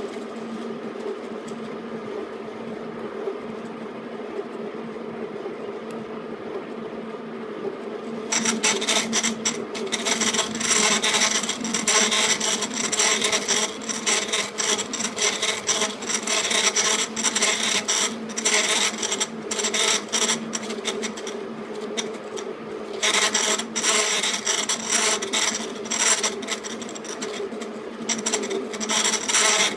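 E1N metal lathe running with a steady motor and gear hum. From about eight seconds in, a cutting tool working the spinning metal workpiece adds a dense, harsh scraping noise. The noise eases briefly and comes back strongly near the end.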